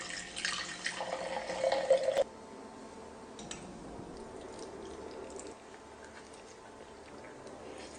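Liquid being poured, hissing, cut off abruptly about two seconds in; then faint scattered clicks and taps.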